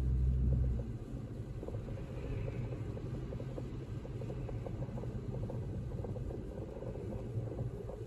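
Low rumble of a car's engine and tyres heard from inside the moving car's cabin, louder for about the first second and then steady.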